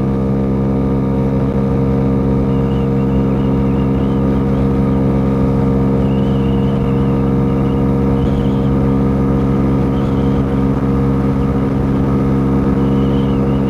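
Dongfang DF50SST 50cc scooter engine running at high, steady revs while riding, with no change in pitch.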